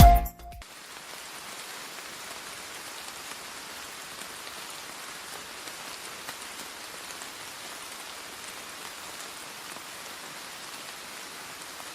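Steady, even hiss of water with almost no low rumble, coming in right after background music cuts off abruptly at the start.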